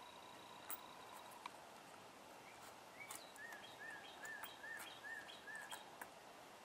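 Faint outdoor quiet with a bird repeating a short chirp, about seven times at roughly three a second, through the middle. A few light clicks of small metal snap fasteners being picked up and set down on a wooden table are also heard.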